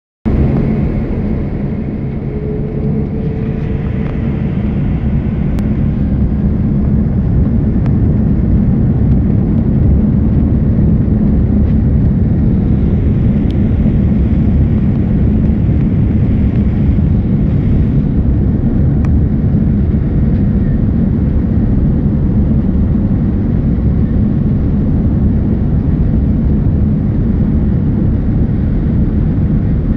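Airbus A310 jet airliner on its takeoff run, a loud steady low rumble of engines and rolling noise that builds over the first ten seconds and then holds.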